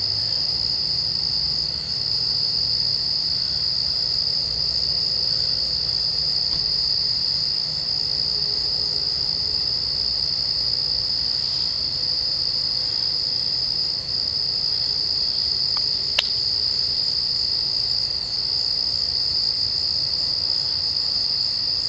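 Steady, loud, high-pitched chorus of night-singing insects, unbroken throughout. A single sharp click sounds about sixteen seconds in.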